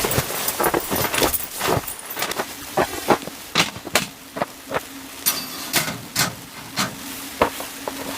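Irregular sharp knocks and clicks, a few a second, over a faint steady hum.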